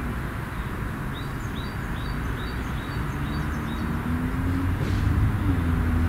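A small bird sings a run of about seven short, evenly repeated high notes, two or three a second, in the first half. Under it runs a low engine hum with a wavering drone that grows louder through the second half.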